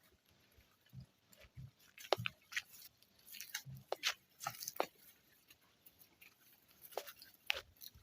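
Footsteps crunching over dry grass and stones: irregular crackles and dull thuds, busiest in the middle and again near the end.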